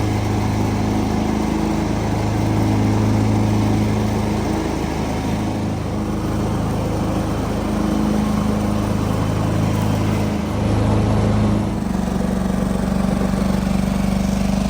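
John Deere 425 garden tractor's liquid-cooled engine running steadily. It dips briefly about ten seconds in and settles to a slightly lower note about twelve seconds in.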